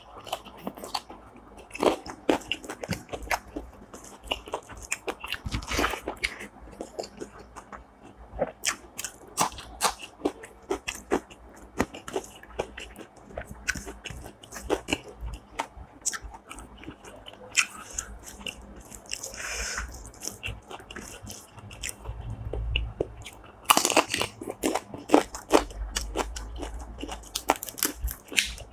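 A person chewing and biting crunchy food close to the microphone: a steady run of sharp crunches and mouth sounds, growing denser near the end.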